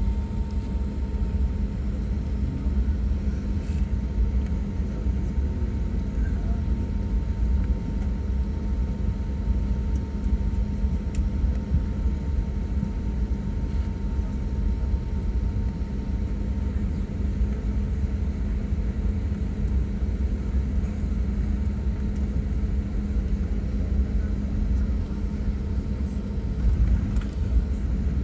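Cabin noise inside an Airbus A320 taxiing after landing: jet engines at idle with a steady low rumble and a constant hum.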